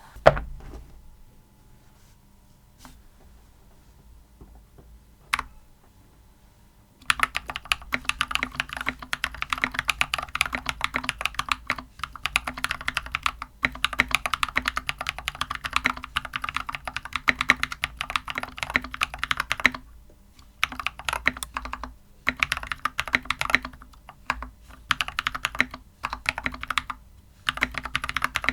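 Anne Pro 2 mechanical keyboard with Glorious Panda tactile switches and foam dampeners, on a desk mat, typed on in rapid continuous clicks. A single thump comes just after the start, then it is quiet until about seven seconds in. From there the typing runs with short pauses.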